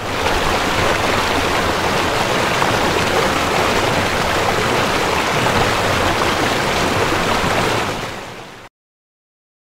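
Heavy rain sound effect: a steady, dense hiss of rainfall that eases slightly near the end, then cuts off abruptly.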